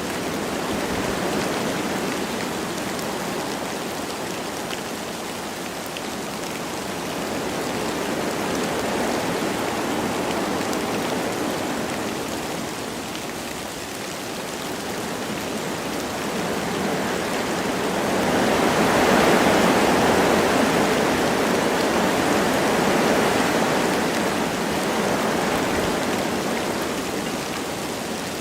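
Wind blowing through forest trees with light rain, a steady rushing that swells into a stronger gust about two-thirds of the way through before easing off.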